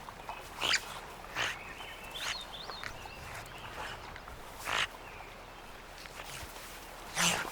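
North American river otters calling: a few short squeaks and grunts spaced a second or two apart, with a wavering chirp about two to three seconds in.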